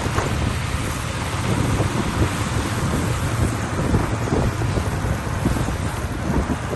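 Heavy diesel machinery running with a steady low rumble, with wind buffeting the microphone.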